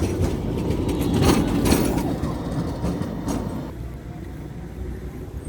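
Tram passing on its rails: a low rumble with a few sharp clacks that fades away after about three and a half seconds.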